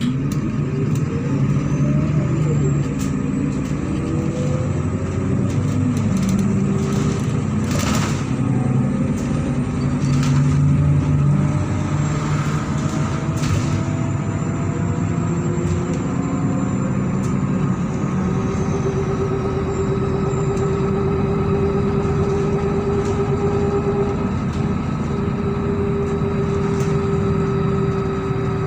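MAZ-103 city bus under way: its diesel engine rises in pitch as the bus pulls away in the first few seconds, then runs steadily. There are two short bursts of noise, about 8 and 13 seconds in, and a steady whine joins the engine from about two-thirds of the way through.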